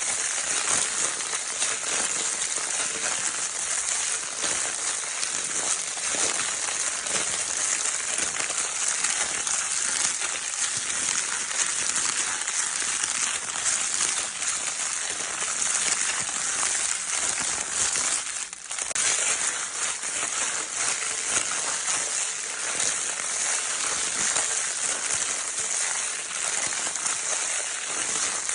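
Baby's crinkle-paper toy being crinkled continuously: a dense, steady crackling rustle made of countless tiny crackles, with a brief lull a little over two-thirds of the way through.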